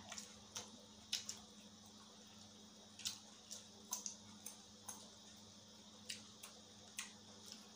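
Faint, irregular crunching and mouth clicks of someone chewing a slice of green mango, roughly one or two a second.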